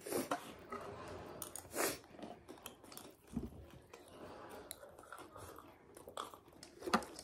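Chewing a mouthful of chatpat, the spicy puffed-rice snack, with soft, irregular crunches and mouth clicks.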